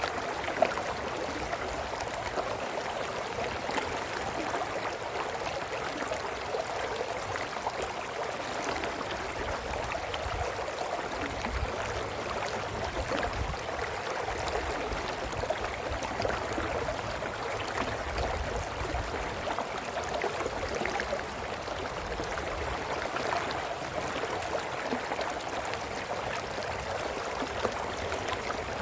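A brook's water running over rocks, a steady babbling and gurgling. A brief click comes less than a second in.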